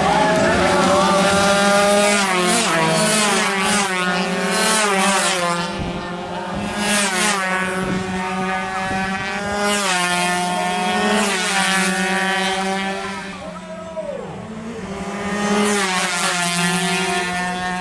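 Two-stroke 116cc underbone racing motorcycles running at full throttle. Their engine pitch climbs and drops again and again through gear changes, with several bikes heard at once. The sound eases off briefly near the end, then builds again.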